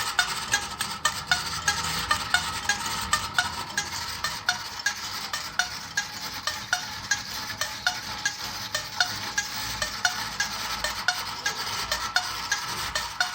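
Clockwork spring motor of a tin-toy motorcycle carousel running: a steady metallic whirring with regular clicks, roughly two to three a second, as the carousel turns.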